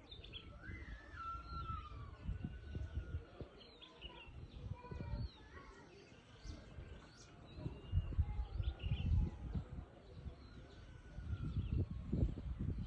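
Several birds chirping and whistling with short calls and gliding notes, over a low uneven rumble that swells twice in the second half.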